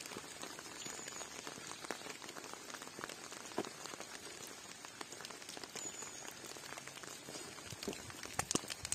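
Rain pattering steadily: an even hiss of rainfall dotted with many separate drop ticks, a few louder drops near the end.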